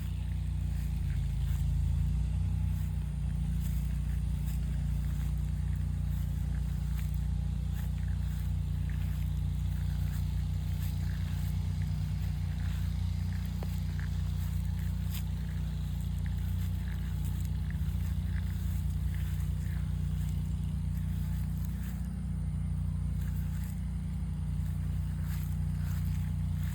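A steady low rumble, with faint scattered crackles and ticks above it.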